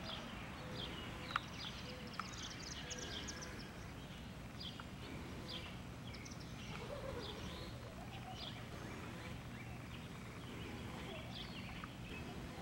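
Small birds chirping on and off throughout, short high falling calls over a steady low background hum, with one sharp click about a second and a half in.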